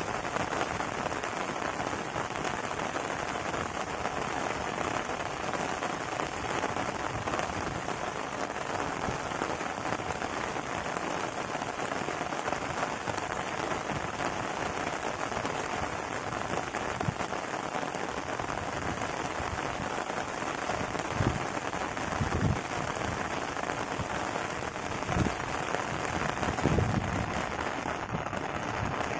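Steady rain falling on a surface, an even hiss of many drops, with a few dull low thumps in the last third.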